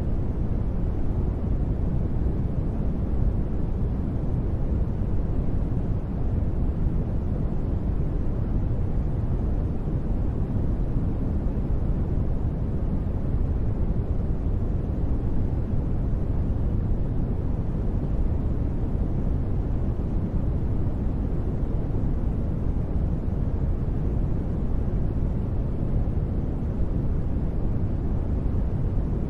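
Continuous synthetic sleep noise, billed as white noise but deep and bass-heavy, with little treble, more like brown noise. It stays perfectly even, with no changes or sudden sounds.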